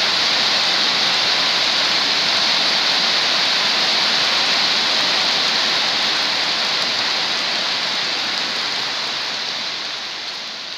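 Heavy tropical downpour falling steadily on the ground and the wet road, an even rushing hiss that fades out near the end.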